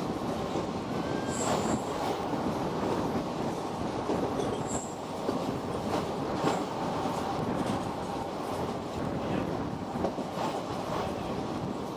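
Running noise of a passenger train heard from on board while crossing a long bridge: a steady rumble of coach wheels on the rails, with scattered clicks and a couple of brief high wheel squeaks.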